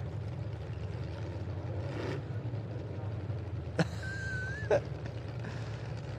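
Derby trucks' engines idling in a steady low rumble while the field is held under a red flag. About four seconds in come two sharp bangs less than a second apart, with a thin high whine between them.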